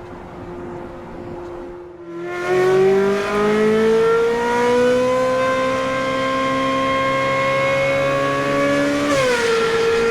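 Ferrari 458 Spider's naturally aspirated V8 drones steadily at first. About two seconds in it opens up under hard acceleration, and its note climbs steadily for several seconds. Near the end the pitch drops sharply with an upshift, and the engine pulls on in the next gear.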